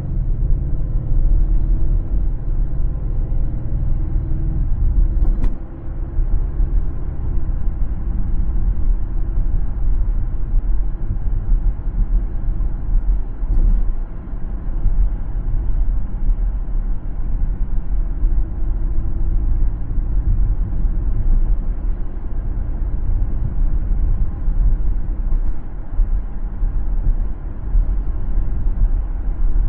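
A car driving on a road: a steady low road and tyre rumble, with an engine note that shifts in pitch over the first several seconds. A single sharp click comes about five seconds in.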